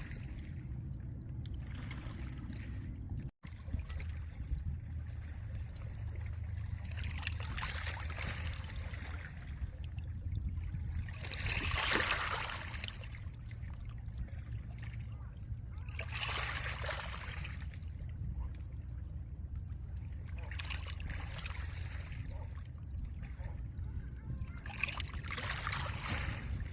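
Small lake waves washing over a pebble shore, a hissing wash swelling and fading every four or five seconds, the biggest about twelve seconds in, over a steady low rumble. The sound drops out for an instant about three seconds in.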